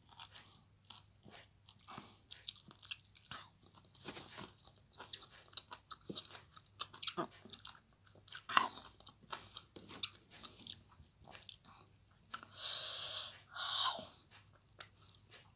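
A person chewing a mouthful of lemon and hot chili, with many short wet clicks and smacks of the mouth. Two longer hissing sounds come near the end.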